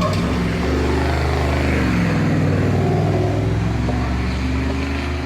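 1997 Ford pickup truck's engine running, a steady low drone whose pitch rises and falls slightly.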